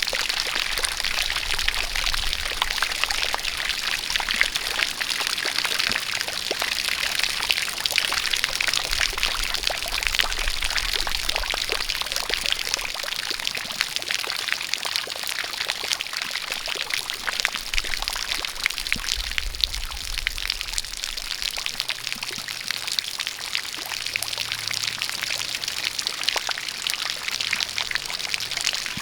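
Steady splashing of a jet of water pouring and spattering, with the fine patter of rain mixed in.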